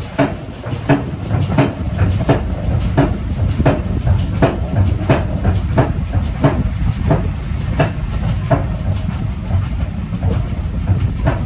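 Heritage steam-hauled passenger train running, heard from a carriage: a steady low rumble with sharp, evenly spaced beats about two to three times a second.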